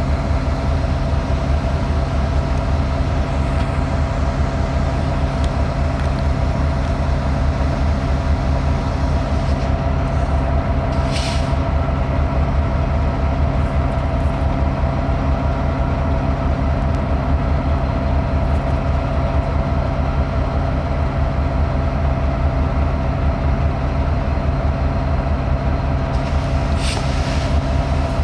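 Diesel-electric locomotive engine idling, a steady low hum that does not change, with a short hiss about eleven seconds in and again near the end.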